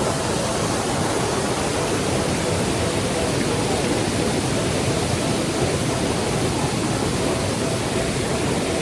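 Waterfall water rushing in a steady, loud roar of noise with no change.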